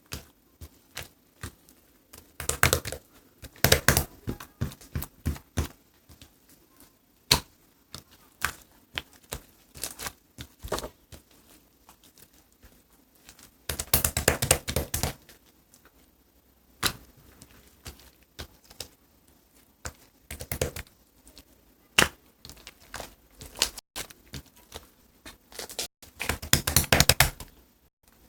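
Close-up handling noise: scattered sharp taps and clicks, with several short spells of dense crinkling and tearing, the densest about two to five seconds in, around fourteen seconds, and near the end.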